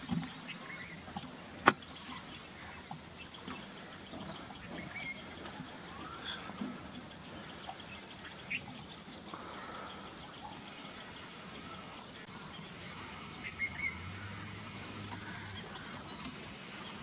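Rural outdoor ambience: scattered bird chirps over a steady high drone, with a fast, regular high ticking through the middle. One sharp click about two seconds in is the loudest sound.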